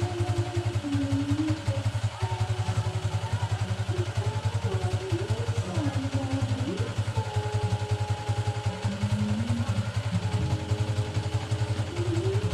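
Motorcycle engine idling with a steady, rapid, even beat. A melody of held and wavering notes sounds over it.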